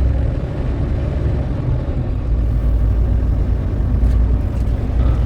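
Steady low rumble of a semi-truck on the move, engine drone and road noise heard from inside the cab.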